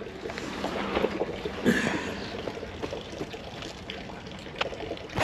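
Creek water trickling steadily, with scattered small clicks over it and a brief louder patch a little under two seconds in.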